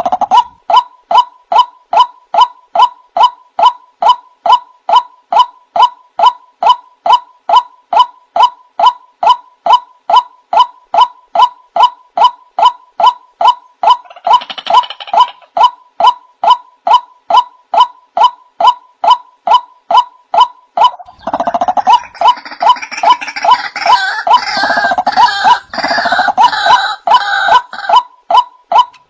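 Male white-breasted waterhen (burung wak-wak) calling: a monotonous series of short 'wak' notes, about two a second. A louder, more tangled burst of calls joins in briefly around the middle and again for the last several seconds.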